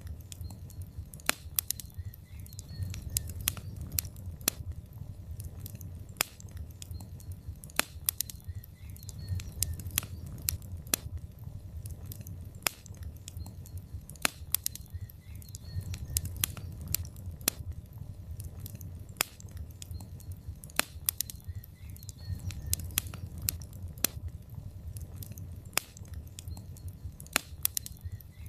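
Wood fire burning in a fireplace: logs crackling and popping with sharp, irregular snaps, several a second at times, over a steady low rumble of the flames.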